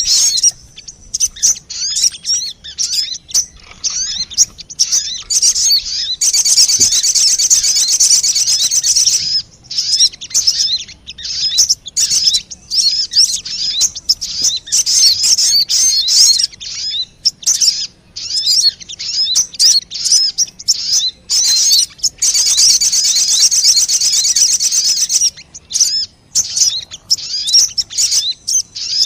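Sogon bird lure recording: rapid high-pitched chirps and trilling calls. Two longer, dense unbroken trills come about seven seconds in and again around twenty-two seconds.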